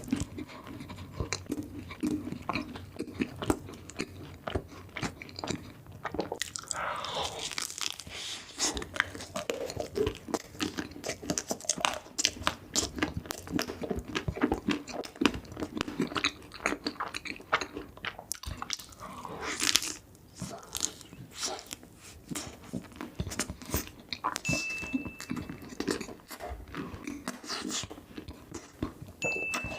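Close-miked eating sounds: repeated bites and chewing of crunchy chocolate sweets, with irregular crunching and mouth clicks.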